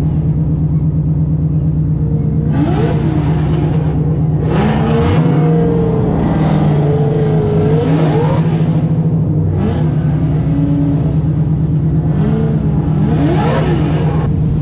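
Drift car engine revving up and down over a steady drone, with repeated bursts of tyre and exhaust noise as the throttle is worked through a drift run.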